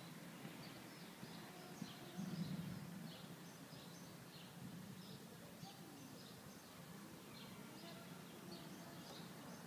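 Faint outdoor ambience: small birds chirping many times in quick, short calls over a low background hum, which swells briefly about two seconds in.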